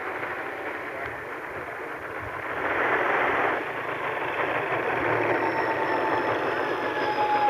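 Electric motors and propellers of a radio-controlled model airplane in flight, a steady rushing sound that swells briefly a few seconds in. From about five seconds in, a faint motor whine slowly drops in pitch as the plane passes.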